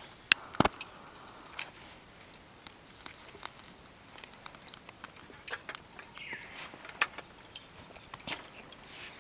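Scattered sharp clicks and light knocks at irregular intervals over a faint hiss, with a short falling squeak about six seconds in.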